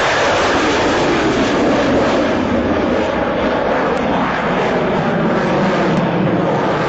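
Loud, steady jet engine noise of a Dassault Rafale M fighter flying a display pass.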